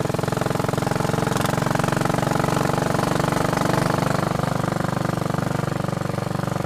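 Royal Enfield Bullet Machismo 500's single-cylinder four-stroke engine running steadily, an even fast beat of firing pulses, a little louder in the middle then easing slightly. The owner calls the bike noisy.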